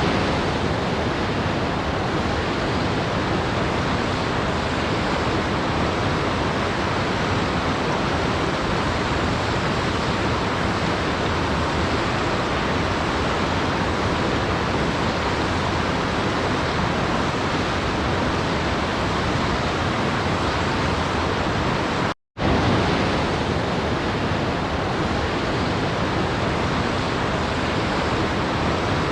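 Steady, even rushing noise of a waterfall white-noise soundscape, with no rhythm or distinct events. It cuts out to silence for a split second about 22 seconds in, then resumes at the same level.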